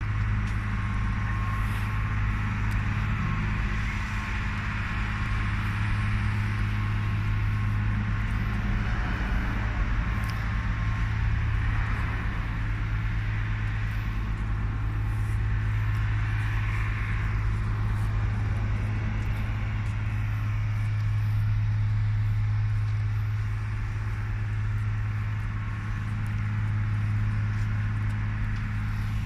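Heavy truck diesel engine running steadily with a constant low hum.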